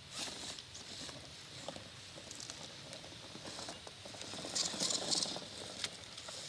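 Axial XR10 1/10-scale RC rock crawler climbing over rock: light scratching and clicking of its tires and electric drivetrain on the rock, louder for about a second a little past the middle.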